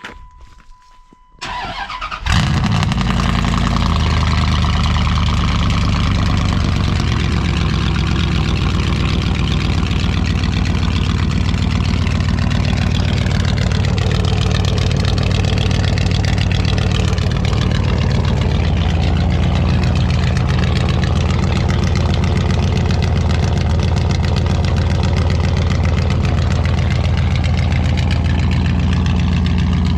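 Cold start of a 5.9-litre V8 truck engine with straight-piped exhaust manifolds into 2-inch exhaust: a brief crank about two seconds in, then it catches and runs loudly and steadily at idle.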